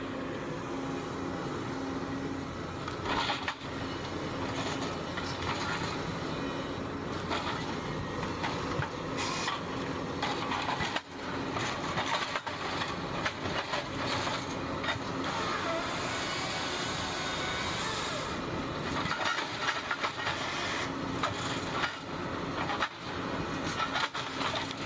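Diesel engines of a grapple skidder and a dangle-head timber processor running steadily under load. Repeated sharp knocks and cracks from logs being gripped, delimbed and cut are heard throughout.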